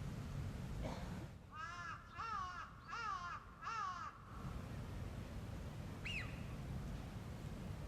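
A crow cawing four times in quick succession, each caw a harsh, arching call, followed by a single fainter call a couple of seconds later.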